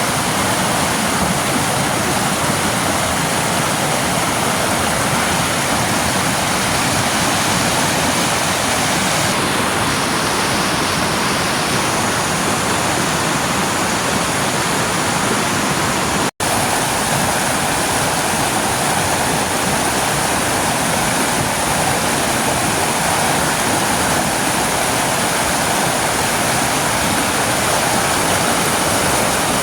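Waterfall: a loud, steady rush of falling water, with a momentary break about halfway through.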